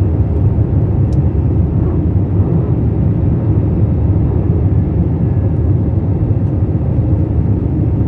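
Airbus A321 taking off: a steady, loud low rumble of jet engines at takeoff power and rushing air, as heard in the passenger cabin.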